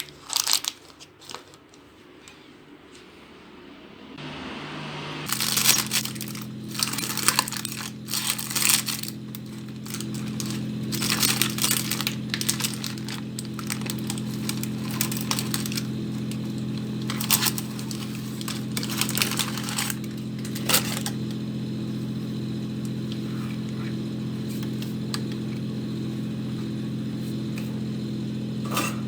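A steady electric appliance hum starts about five seconds in. Repeated clinks, rattles and crinkling of kitchen items sound over it, busiest in the first twenty seconds.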